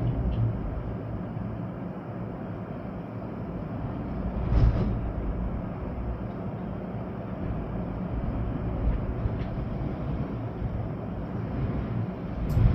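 Storm wind blowing hard through trees with rain, a steady noise heavy in the low end, with stronger gusts about four and a half seconds in and again near the end.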